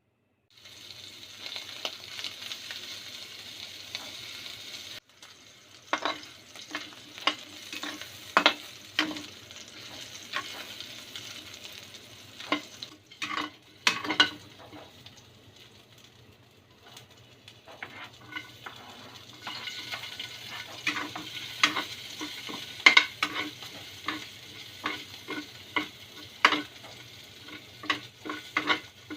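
Food sizzling in a pan while a utensil stirs it, with repeated clinks and scrapes of the utensil against the pan. The sizzle comes and goes, loudest near the start and again past the middle.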